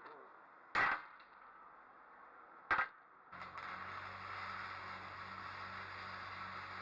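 Welding arc on a New Holland B95 backhoe boom: two brief tack-weld bursts, about one and three seconds in, then a steady arc hiss with a low electrical hum that starts abruptly and runs on.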